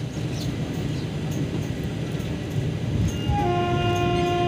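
Low rumble of a train running on the rails, heard from on board. About three seconds in, a train horn starts and holds a steady multi-tone blast.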